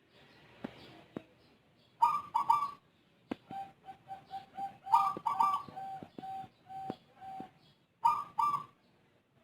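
Zebra dove (perkutut) cooing: three loud ringing phrases about three seconds apart, with a run of shorter, lower coos, about two a second, between them. The bird's song is unusual, unlike that of local or Bangkok perkutut. A few faint sharp clicks near the start.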